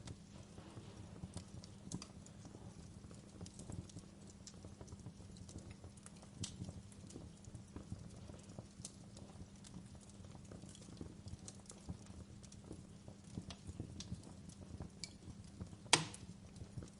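Wood fire burning in a fireplace: a low steady rumble of flames with irregular crackles and pops, and one loud sharp snap near the end.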